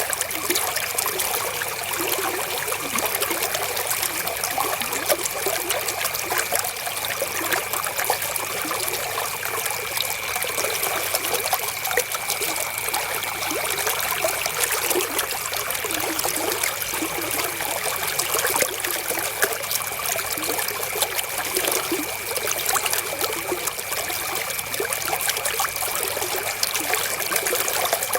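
River water flowing, a steady trickling babble thick with small splashes. A faint steady high tone runs underneath.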